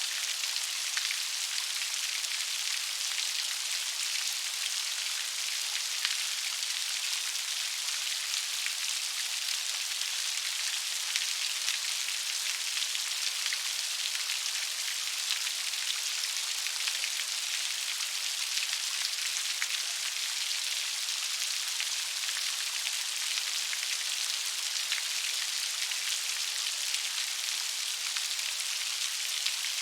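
Steady gentle rain: an even hiss of falling rain with many fine drop patters and no change in strength.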